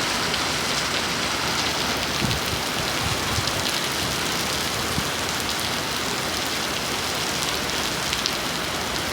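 Steady rain falling, an even wash of sound with a few separate drop impacts ticking now and then.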